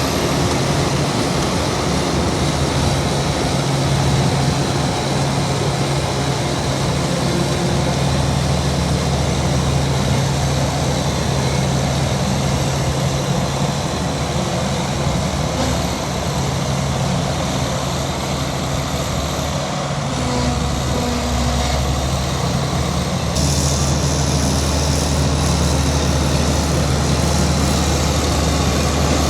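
Heavy diesel engine of earth-moving machinery running steadily with a low, even drone. The sound shifts slightly about two-thirds of the way through.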